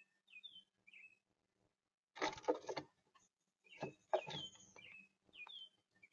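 Red-bellied woodpecker calling: short chirps, with two louder, harsh rasping calls about two seconds in and about four seconds in.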